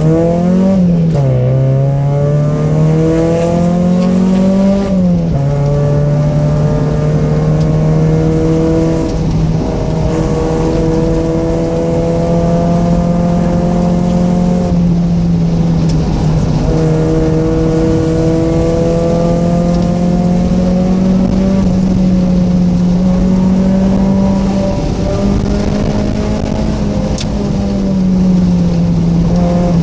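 Mazda Miata's 1.6-litre four-cylinder engine, breathing through aftermarket headers and exhaust, pulling hard on a canyon run. The revs climb and drop sharply twice in the first five seconds, as with quick gear changes. It then holds fairly steady revs, rising and easing slightly as the throttle comes on and off.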